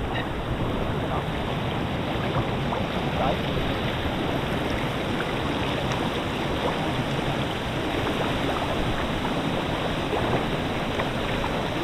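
Steady rush of falling water from a jungle waterfall and its creek.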